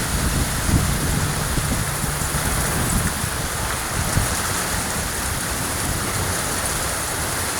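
Heavy rain pouring down in a steady downpour during a severe thunderstorm.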